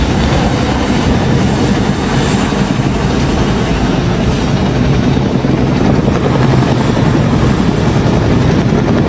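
Helicopter flying overhead, its rotor and engine making a loud, steady noise with a low rapid chop.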